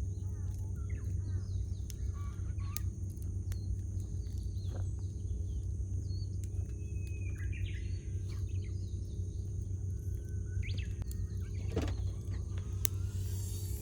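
Wood campfire crackling with a few sharp pops over a steady low rumble, while small birds chirp and call repeatedly.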